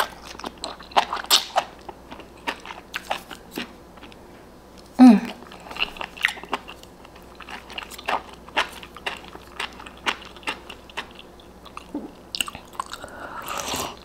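Close-miked chewing of a mouthful of spicy noodles, with many small wet mouth clicks and smacks. A short falling 'mm' hum comes about five seconds in, and a slurp from the spoon near the end.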